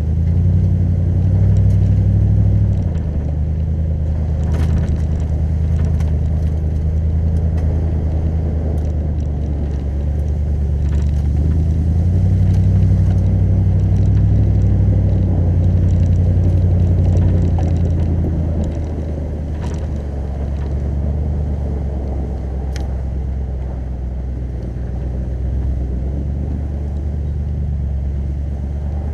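Lexus GX 470's 4.7-litre V8 engine running at low speed, a steady low drone that rises and falls in pitch a few times with the throttle. A few brief clicks and knocks are heard over it.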